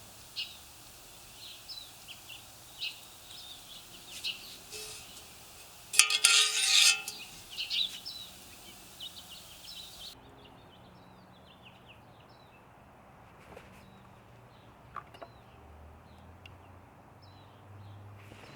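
Small birds chirping outdoors, short high calls scattered throughout, with a louder harsh burst about six seconds in.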